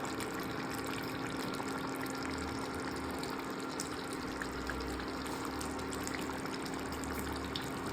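Chicken curry simmering in a pot: a steady bubbling hiss with scattered small pops, over a steady low hum.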